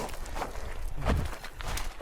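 Hiking boots stepping on a loose volcanic trail, several crunching footsteps during a descent.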